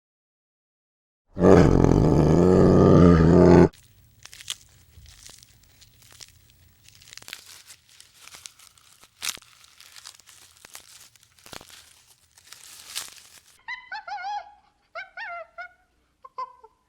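A large animal's deep roar lasting about two seconds, followed by a long stretch of faint crunching and rustling. Near the end come a few short honking bird calls.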